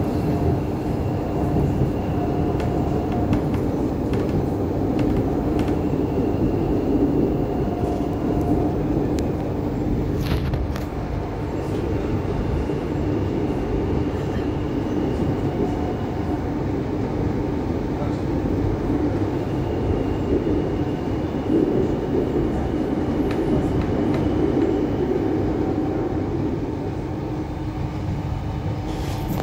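Inside a moving DART 8520 class electric multiple unit: a steady rumble of the wheels on the track, with a hum from the running gear and faint whines that come and go, and a few clicks.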